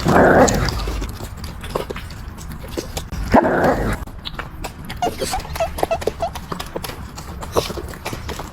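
A dog eating, with quick irregular clicks of chewing and licking, and two short, louder rushes of noise, one at the start and one about three and a half seconds in.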